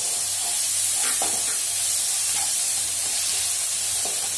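Onions, chillies and freshly added ginger-garlic paste sizzling steadily in hot oil in a nonstick kadai while being stirred with a wooden spatula.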